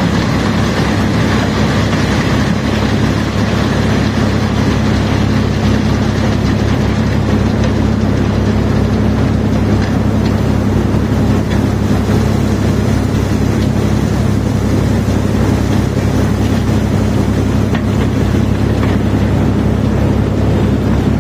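A large engine running steadily with a constant low drone and a heavy mechanical rumble, with no separate knocks or impacts standing out.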